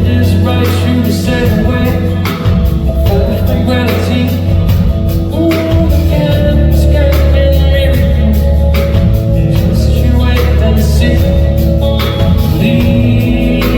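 Live band playing a soft-rock ballad led by guitar over a steady bass line, with regular strummed chords.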